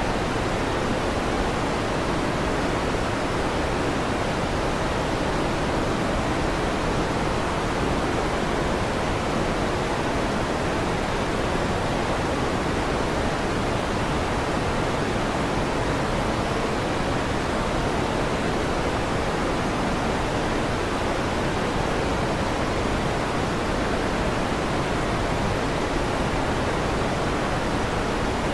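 Electric fan running: a steady, even whoosh of noise that does not change.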